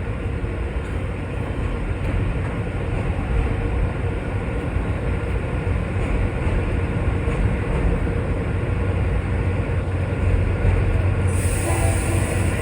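Commuter train running through the station with a steady low rumble. A high hiss starts suddenly near the end.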